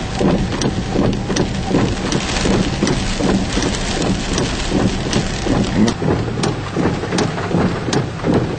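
Heavy storm rain beating on a car's roof and windshield, with scattered sharp drop hits over the steady hum of the running vehicle.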